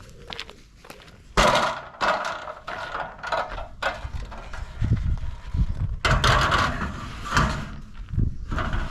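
Footsteps with irregular knocks and rustles of someone on the move, a heavier low rumble joining about halfway through.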